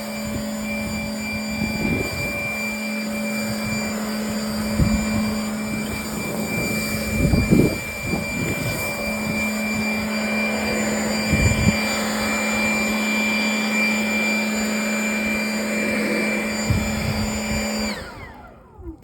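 Electric blower motor running steadily with a whine and a rush of air, with a few low bumps along the way. Near the end it is switched off and winds down in a falling whine.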